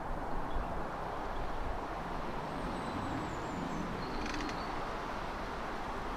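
Steady low rumble of a Class 90 electric locomotive hauling an intercity train, still some way off and approaching at speed along the main line.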